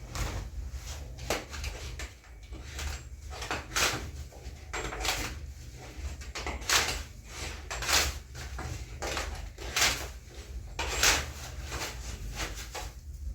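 Curtain fabric being handled: a string of short rustling and sliding swishes, about one a second, over a steady low hum.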